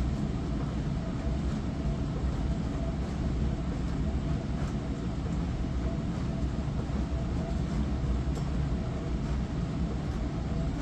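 Hava glass-front dishwasher running its wash cycle: a steady pump rumble and hum with water spraying over the dishes, and now and then a faint tick.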